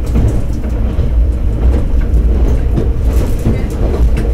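Diesel railcar running along the line, heard from inside the car: a steady low rumble of engine and wheels on rail, with a few faint clicks from the track.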